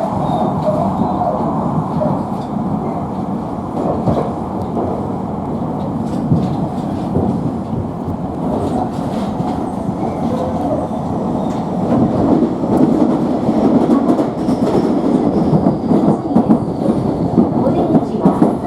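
Electric commuter train heard from inside the carriage running at speed, its wheels clattering over the rails. From about twelve seconds in the clatter grows louder and more uneven as the train crosses the points onto the station track.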